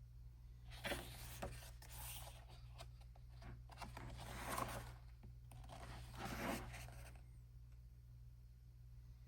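Paper rustling and sliding as the glossy pages of a photobook are handled and turned, in three spells with a quieter stretch near the end, over a steady low hum.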